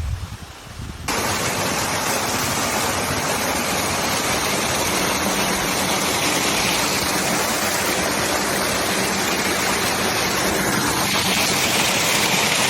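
Small waterfall's water rushing in a loud, steady hiss that starts abruptly about a second in.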